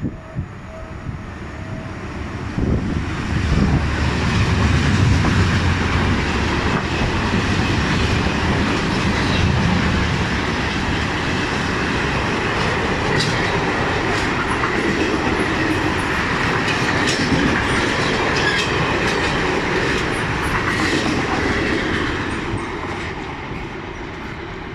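Freight train passing close by: a heavy low rumble builds over the first few seconds, then the wagons roll past with a steady clatter and sharp clicks from the wheels over the rail joints, easing slightly near the end.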